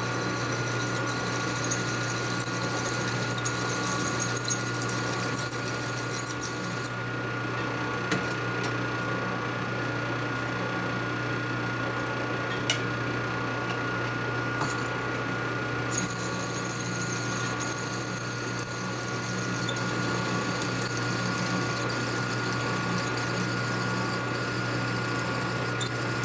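Machine tool running with a steady motor hum while a drill bit bores into metal. Twice the cutting brings on a high squeal and rough, uneven chatter, once early and again about two-thirds of the way through.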